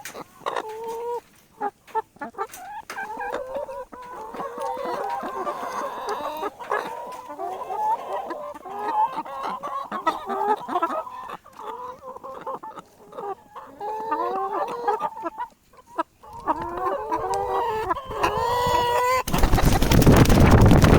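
A flock of chickens clucking and calling, many short calls overlapping. Near the end a loud rushing noise comes in suddenly and covers them.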